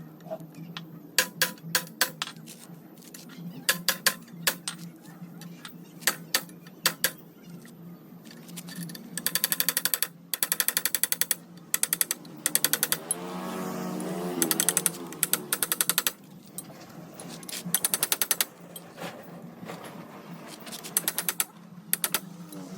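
Workshop noise while restoring a metal lathe: scattered sharp metallic clicks and knocks, and several bursts of rapid hammering at about ten strokes a second, over a steady low hum. Around the middle, a pitched tone falls and rises.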